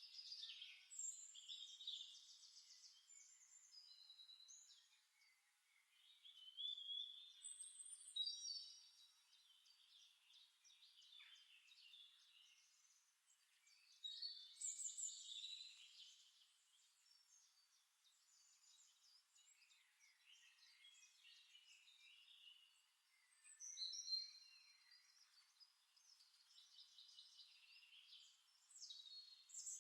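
Faint songbirds singing: several birds in short, high chirping and trilling phrases that come in groups, from a background nature-sound recording.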